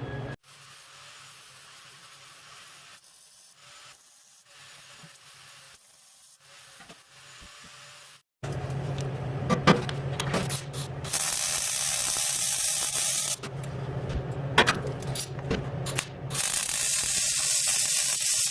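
MIG welding on sheet steel: a quieter hiss for the first eight seconds, then about ten seconds of loud crackling hiss over a steady low hum, stopping and restarting a few times.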